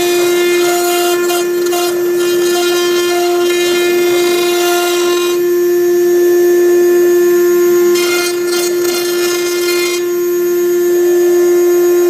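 6090 CNC router's spindle whining at a steady pitch as its V-bit engraves MDF, with the stepper motors giving a higher tone that starts and stops as the axes move. The cutting hiss drops away twice, for about two seconds each time.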